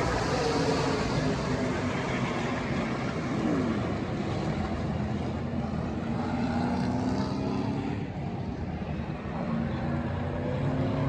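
NASCAR Truck Series race trucks' V8 engines running on the track, several engine notes gliding in pitch as trucks pass, over a steady wash of engine noise.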